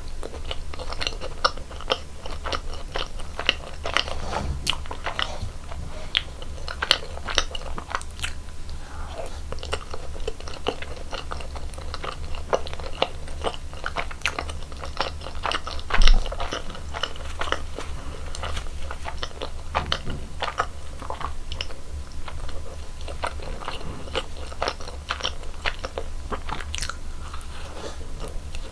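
Close-miked chewing of cream-filled doughnuts: steady irregular crunching and soft wet mouth sounds, with bites now and then and one louder thump about 16 seconds in.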